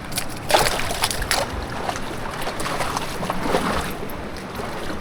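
Water splashing in short bursts, most in the first second and a half, over steady wind on the microphone.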